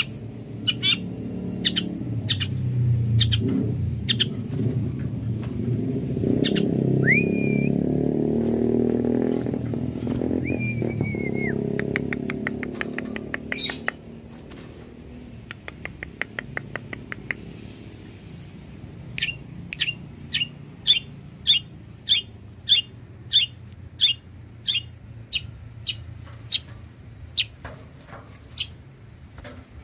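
Long-tailed shrike singing: harsh chip notes in series, two short whistled notes and a fast rattle, then a run of loud sharp chips about two a second. A low rumble runs under the first half.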